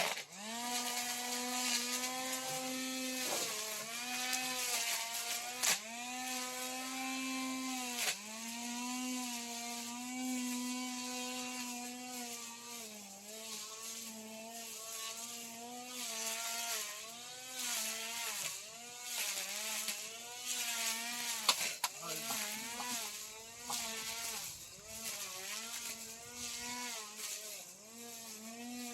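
Battery-powered grass trimmer running with a steady motor whine that sags in pitch and recovers again and again as it cuts into grass.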